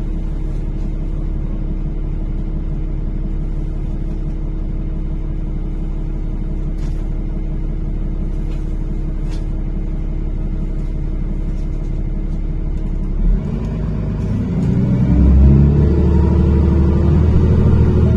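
NefAZ-5299 city bus engine idling steadily, heard from inside the cabin. A short knock comes about 13 seconds in, then the engine gets louder and climbs in pitch as the bus pulls away from the stop.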